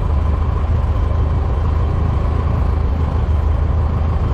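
Cessna 120's air-cooled four-cylinder engine running steadily during a ground run-up.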